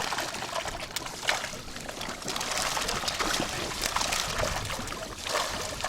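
Sea water splashing and trickling, with many small irregular splashes close to the microphone.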